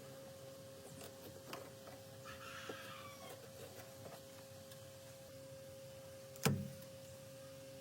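A steady hum with scattered light clicks, a short bird-like call about two to three seconds in, and one sharp knock about six and a half seconds in.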